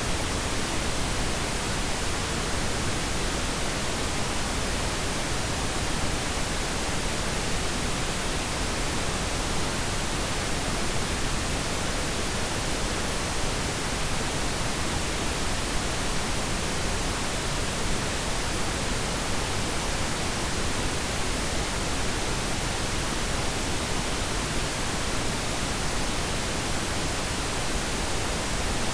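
Steady pink noise: an even, unchanging hiss spread across the whole range, softer in the highs than white noise.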